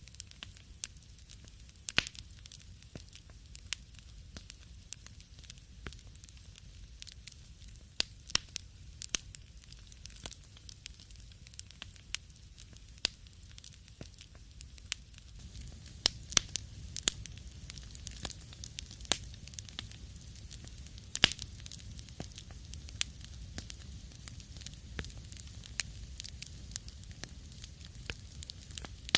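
Wood fire in a fireplace crackling, with irregular sharp pops and snaps over a soft, steady low rumble of the flames. The pops come thicker and the rumble rises slightly about halfway through.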